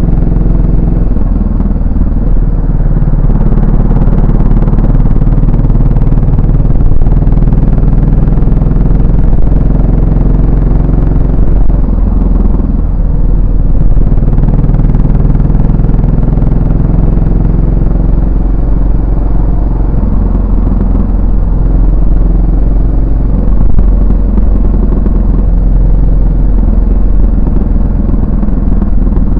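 Yamaha SR400's air-cooled single-cylinder four-stroke engine and exhaust while riding, running continuously, its note shifting in pitch several times as the bike speeds up and slows.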